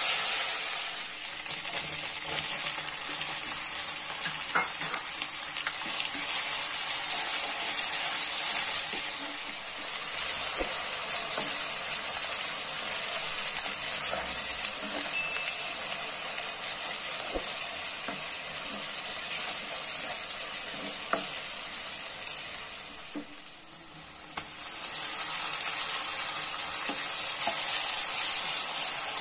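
Chopped onion sizzling in hot oil in a nonstick wok while a spatula stirs it, with a few light taps and scrapes of the spatula. The sizzle dies down briefly near the end and then picks up again.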